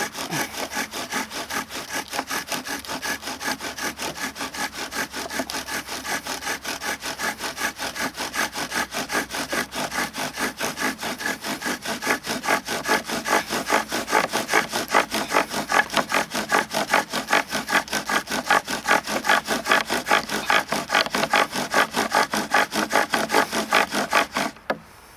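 Bow drill running with a knife as the spindle: the knife tip grinding into a wooden fireboard in fast, even back-and-forth bow strokes. The strokes get louder about halfway through and stop suddenly near the end. This is friction drilling to make an ember.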